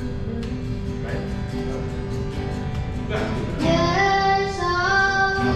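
Worship song played by a live band: an instrumental stretch with a held note and light strummed strokes, then a singer's voice comes in a little past halfway.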